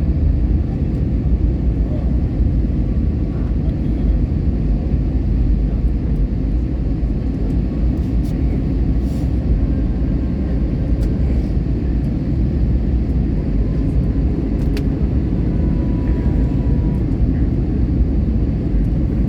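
Passenger jet cabin noise: a steady low rumble of engines and airflow that holds at one level throughout.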